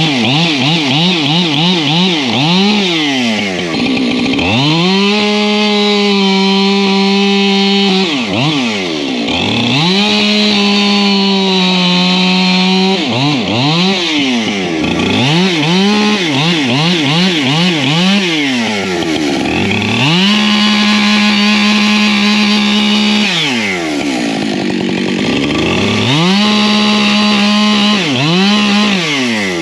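Husqvarna two-stroke chainsaw bucking firewood. The engine is held at a steady high pitch for about three seconds at a time, four times, and between those spells the throttle is blipped so the pitch repeatedly drops and climbs.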